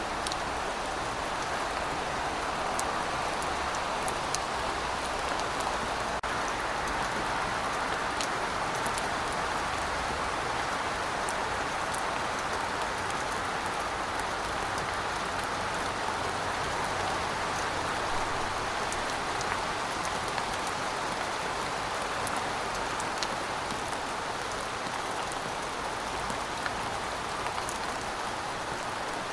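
Heavy rain falling steadily, with scattered sharp drop ticks over the even hiss.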